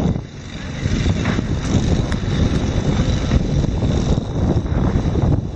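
Loud, steady low rumbling noise with no clear pitch, dipping briefly just after the start.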